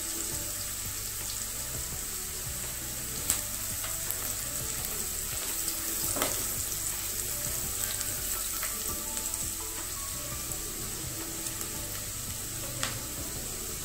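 Chopped onions, garlic and cashews sizzling steadily in hot oil in a non-stick wok, stirred with a spatula, with a few light clicks of the spatula against the pan.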